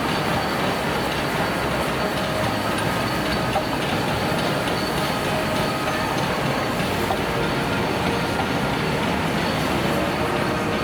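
A train running past, a steady, unbroken noise of wheels and carriages on the track.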